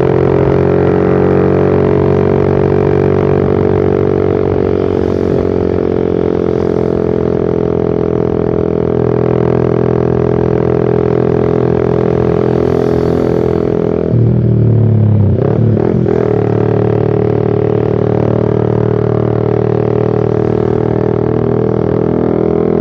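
Suzuki Satria FU Fi single-cylinder four-stroke exhaust through a short aftermarket Pro Liner muffler, running steadily under way with a droning note that drifts slowly in pitch. The note breaks and dips twice, about 14 and 16 seconds in, as with a throttle change or gear shift.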